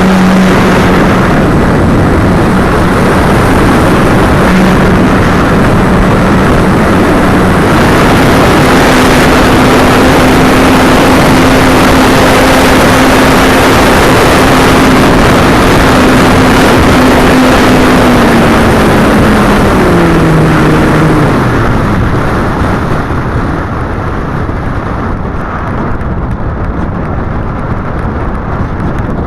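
ParkZone Radian's electric motor and propeller humming under heavy wind buffeting on the microphone; the hum steps up in pitch about eight seconds in, then winds down in pitch and stops a little past twenty seconds.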